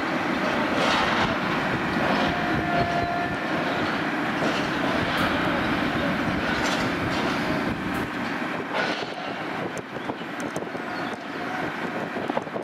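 A train running past on the rails, a steady rumble with a brief squeal about two seconds in, easing off after about eight seconds.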